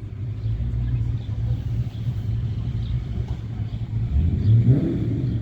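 A car engine running with a steady low rumble, swelling briefly about four and a half seconds in.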